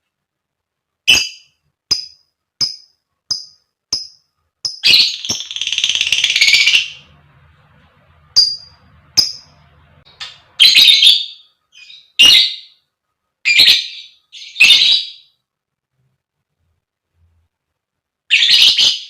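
Lovebird calling: a run of short, sharp, high chirps about one every 0.7 seconds, then a harsh chattering trill lasting about two seconds. More chirps and short chattering bursts follow, then a pause of a few seconds and one more burst near the end.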